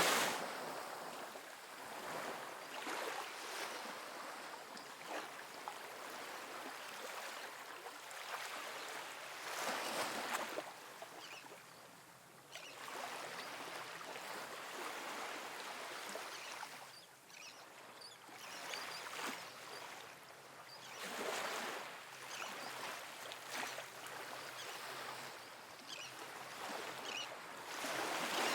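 Small ocean waves breaking softly on a sandy beach. Swells rise at the start, about ten seconds in, around twenty-one seconds and near the end, with the hiss and faint fizzing of water washing back between them.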